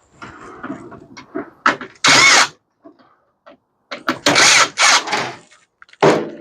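Power drill run in short bursts, three times, backing screws out of a microwave's parts, with clicks and rattles of metal parts being handled between the bursts.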